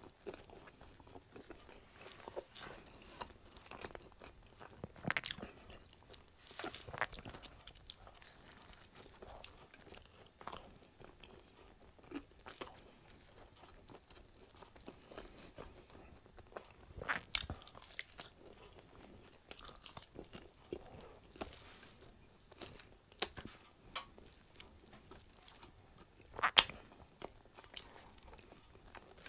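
Close-miked eating of pizza crust: crunching bites and chewing, with scattered sharp mouth clicks. The loudest crunch comes near the end.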